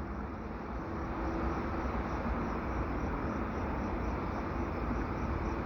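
Double-stack container cars rolling past on a curve: a steady rumble and rail noise from steel wheels on the track.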